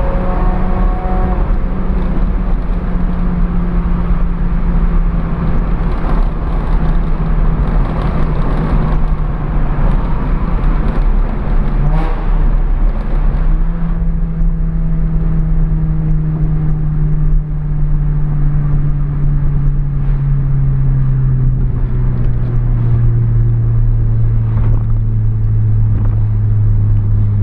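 Car engine running on a test run after an engine swap. Its note falls slowly, jumps back up about twelve seconds in, then falls slowly again to the end.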